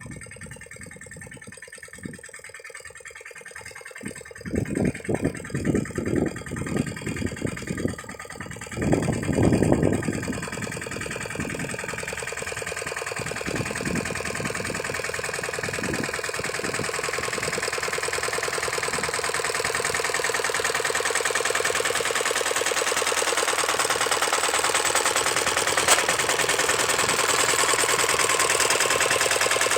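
Lombardini diesel engine of a walk-behind tractor, sputtering unevenly in loud bursts for several seconds, then settling into a steady run that grows gradually louder.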